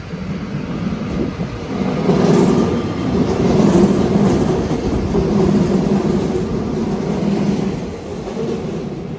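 A train moving through the station at the platform: a steady low hum with rail noise that grows louder about two seconds in and eases off near the end.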